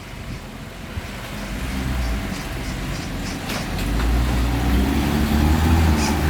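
Heavy diesel engine of a dump truck or bulldozer running with a low rumble that grows louder about four seconds in, with a few light knocks.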